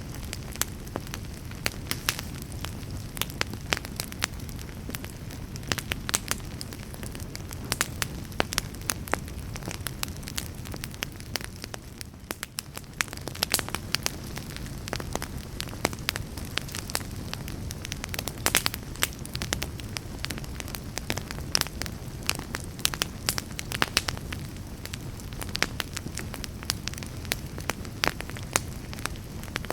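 Wood fire burning in a fireplace: frequent sharp crackles and pops from the burning logs over a steady low rumble of the flames, easing briefly near the middle.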